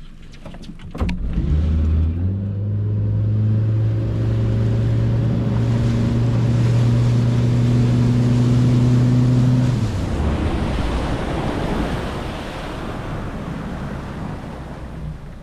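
A few sharp clicks, then a boat motor starts about a second in, steps up in pitch shortly after and runs steadily. Near the end its note drops away, leaving wind and water noise.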